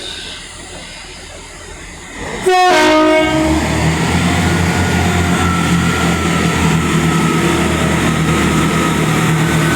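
Train horn sounding two tones, a high note then a lower one, about two and a half seconds in. A train's engine then runs steadily and loudly.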